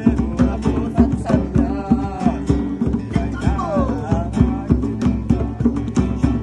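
Music with a strummed guitar keeping a steady beat of about three strokes a second, and some singing heard faintly over it.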